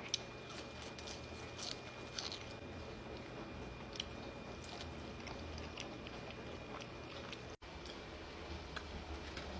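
Close-miked chewing and biting of food, with scattered small crunchy clicks over a steady low hum. The sound drops out for an instant about three-quarters of the way through.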